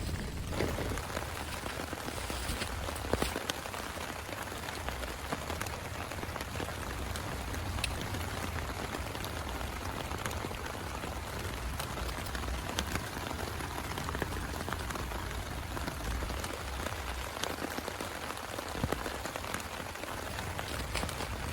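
Steady heavy rain falling, a continuous even hiss with scattered sharper clicks of individual drops striking a surface.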